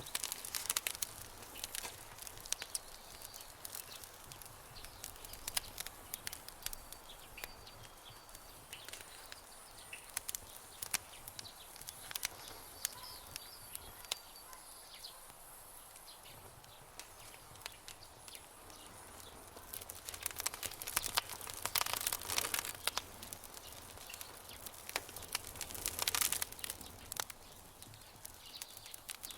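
Wood fire crackling and popping with irregular sharp snaps, growing busier in two spells in the second half. Faint high bird chirps sound over it in the first half.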